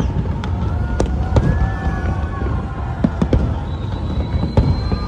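Fireworks bursting overhead: a rapid, irregular series of sharp bangs over a continuous low rumble.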